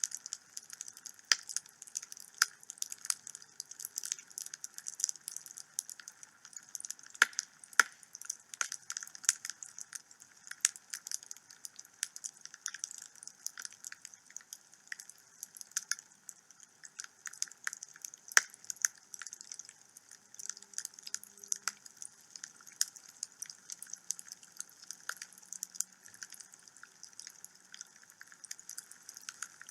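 Wood fire burning in a home fireplace, crackling with irregular sharp pops over a steady soft hiss.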